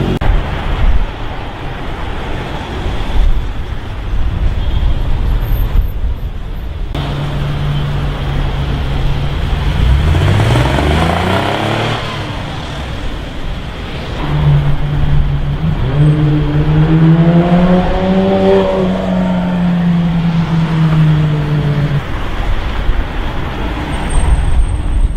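Car engines on a busy city street over traffic noise. About ten seconds in, one engine revs with a steeply rising pitch. A few seconds later another engine holds a steady note that rises and falls slightly before cutting away.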